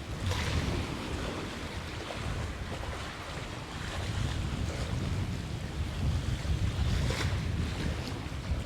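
Wind buffeting the microphone in gusts: a low, uneven rumble over a steady rush of wind.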